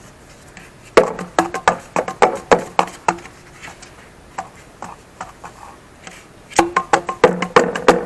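Repeated sharp blows knocking on a PVC pipe form stuck fast in cured castable refractory, to beat it loose. A quick run of strikes starts about a second in, there is a lull, then faster strikes resume near the end, many leaving a short ringing tone.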